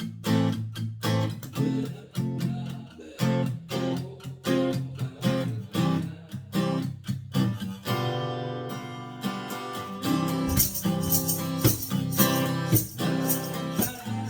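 Acoustic guitar playing a ballad melody in separate plucked notes, letting a chord ring about eight seconds in, then strumming fuller, brighter chords.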